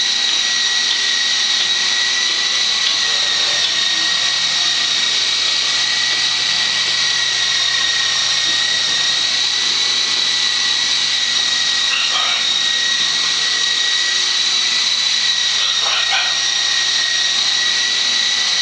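Radio-controlled model helicopter hovering: a steady high-pitched whine from its motor and rotor. A pet bird calls briefly twice, about two-thirds of the way in and again near the end.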